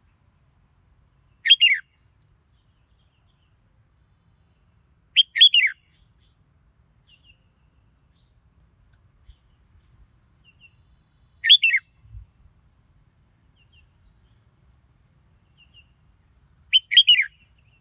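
Red-whiskered bulbul singing: four short, loud warbled phrases several seconds apart, with faint brief chirps in between.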